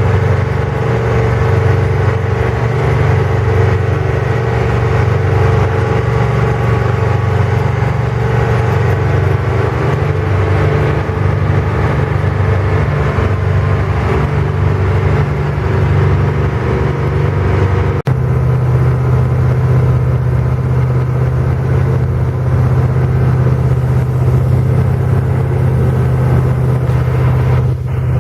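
Ten-wheeler potato truck's engine running loudly with a steady low hum. About eighteen seconds in the sound changes abruptly to a steadier, even engine tone.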